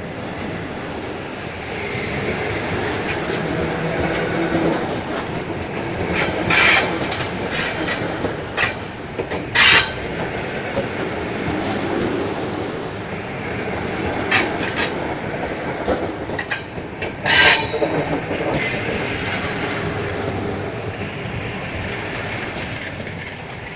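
EPL2T electric multiple unit pulling out and running past, its wheels clattering over the rail joints with a continuous rumble and a series of sharp knocks, the loudest about ten and seventeen seconds in.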